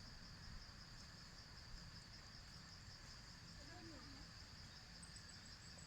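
Faint, steady high-pitched insect trill, like crickets, with a faint short wavering animal call about four seconds in.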